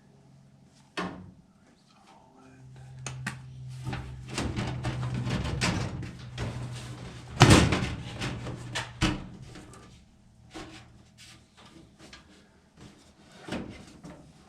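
Knocks, rattles and clatter of hands and tools working on sheet-metal furnace parts, with a low steady motor hum for several seconds in the middle and one sharp loud bang partway through.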